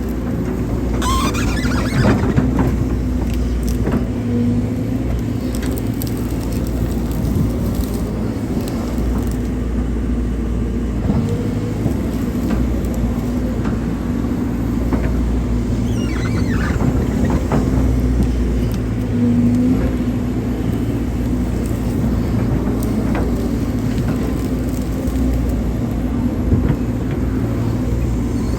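Hydraulic excavator's diesel engine running steadily while it works, with two brief high squeals, about a second in and again about sixteen seconds in.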